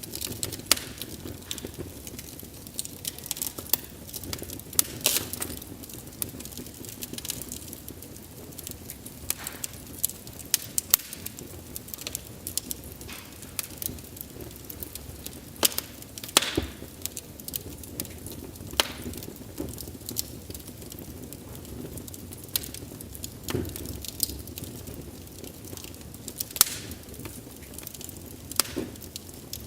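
Wood fire crackling: a low steady rumble and hiss of burning logs with frequent sharp pops and snaps at irregular moments.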